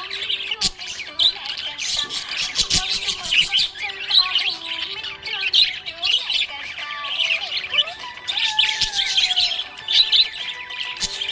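Several small pet parrots chirping, squawking and chattering at once in a continuous, overlapping stream of high chirps, with lower warbling notes woven through.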